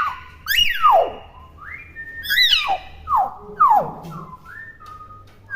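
Young common hill myna calling in its own natural voice, not yet imitating speech: a run of loud whistles, about four sliding steeply down in pitch, with a couple of short level whistled notes between them.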